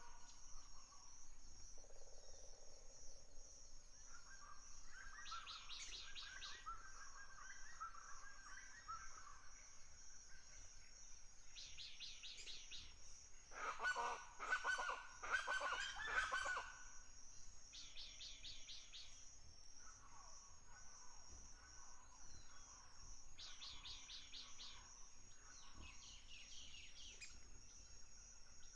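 Birds calling: short repeated calls every few seconds and a louder run of calls lasting about three seconds midway, over a steady high-pitched hum.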